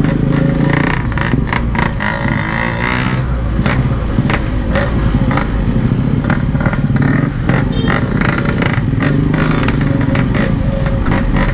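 Yamaha RX-King's 135 cc two-stroke single-cylinder engine running under way at a fairly steady throttle through a stock-style aftermarket exhaust.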